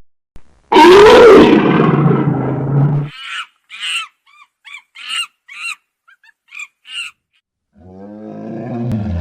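Tiger roaring: one long, loud roar, then about ten short, high chirping calls over a few seconds, then a lower growl building near the end.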